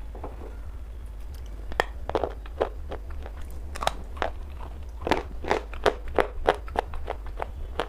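Pieces of wetted black slate stone being bitten and chewed close to the microphone: sharp, irregular crunches starting about two seconds in, coming thickest and loudest in the second half. A steady low hum runs underneath.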